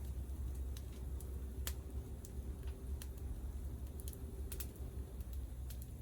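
Wood fire crackling in a Picogrill, with scattered sharp irregular pops over a low steady rumble.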